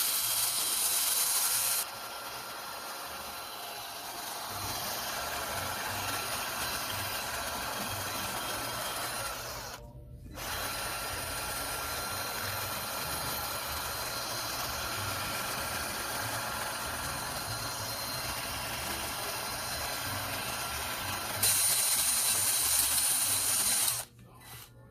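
Steady hissing, whirring noise of a tool at work on a badly fouled carburetor. It is louder for the first two seconds and again for a few seconds near the end, with a short break about ten seconds in.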